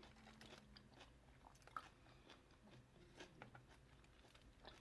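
Faint chewing of a crunchy cucumber slice coated in sauce, with small scattered crunches and mouth clicks.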